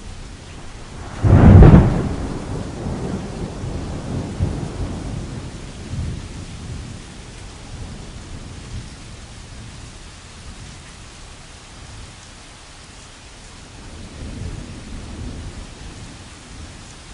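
Steady rain pattering on a canvas tent, with a sharp thunderclap about a second in that rolls and fades over several seconds. A second, softer roll of thunder rises near the end.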